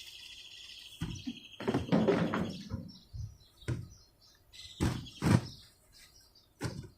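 Cardboard and loose mower parts being handled during unboxing: a string of separate knocks and thumps, the loudest about five seconds in. A high steady trill sounds in the background and fades out about two and a half seconds in.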